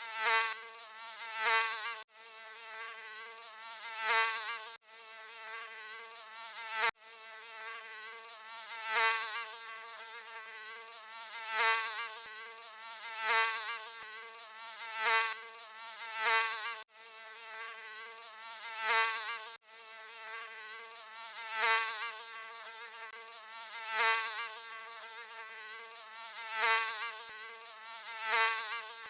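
Mosquito wing buzz, a high whine that swells and fades every second or two as if the insect flies close past the ear and away again, with brief breaks where the recording is looped.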